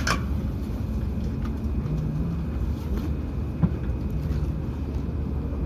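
Hokuriku Shinkansen train running, heard from inside the passenger car as a steady low rumble, with a sharp click right at the start and another about three and a half seconds in.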